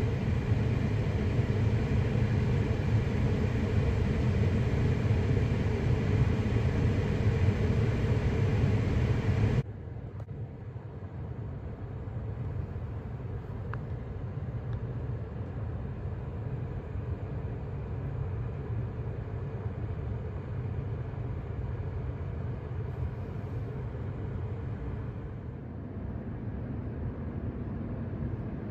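Car driving, a steady rumble of road and engine noise. About ten seconds in it drops suddenly to a quieter, steady rumble.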